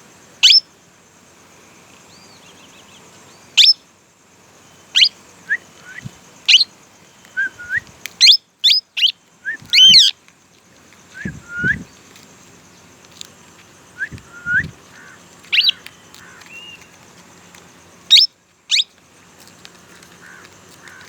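Young plum-headed parakeets calling: short, sharp, shrill chirps that fall in pitch, at irregular intervals, with a quick flurry of them about eight to ten seconds in. A few low thumps come in between the calls.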